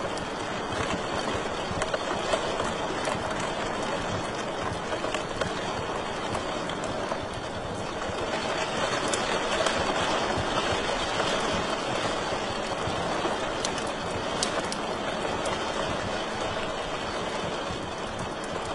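Wood fire burning in a fireplace: a steady rush of flames with many small crackles and pops scattered through it, swelling a little about halfway through.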